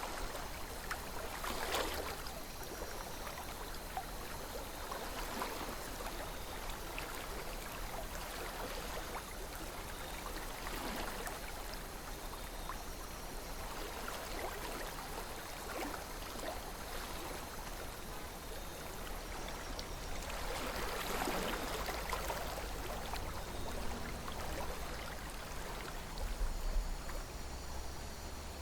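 River water flowing and gurgling steadily, with small swells in the rush every several seconds.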